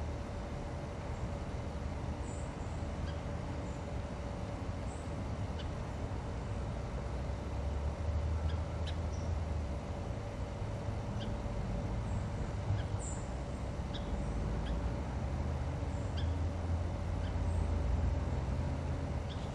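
Outdoor ambience: short, high bird chirps every second or two over a steady low rumble, with a faint steady hum.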